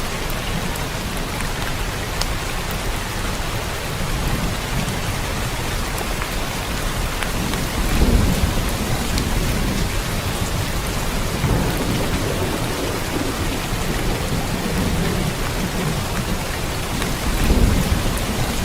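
Steady rain falling, with low rumbles of thunder that swell about eight seconds in and again near the end.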